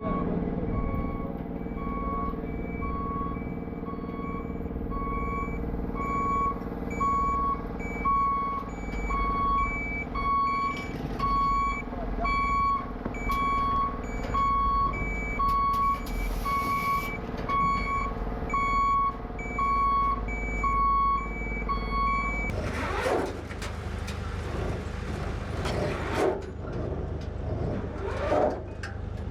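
Heavy vehicle's reversing alarm beeping steadily, a little over one beep a second, over a diesel engine running at idle as it backs up. About three-quarters of the way through the beeping stops abruptly and a harsher, changing noise with rising and falling pitch takes over.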